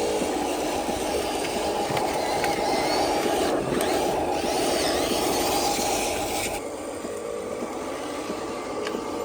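Small electric motors and gearboxes of radio-controlled construction models running with a steady whir. The sound changes abruptly about six and a half seconds in.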